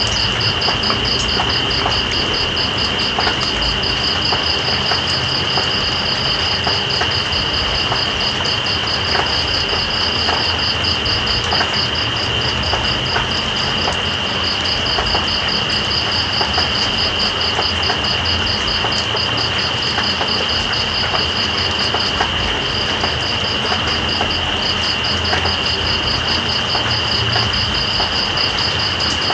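Night insects calling over steady rain: one holds a continuous high trill while another pulses rapidly at about four or five chirps a second. Rain hisses evenly underneath, with scattered drop ticks.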